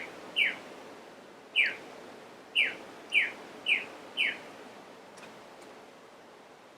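A bird calling: six short chirps, each sliding down in pitch, spaced about half a second to a second apart, over the first four and a half seconds.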